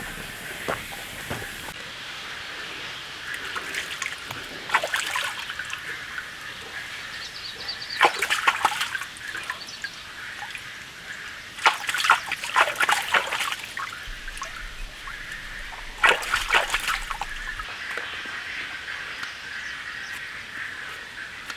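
Water splashing and sloshing in four or five short bursts over a steady background hiss.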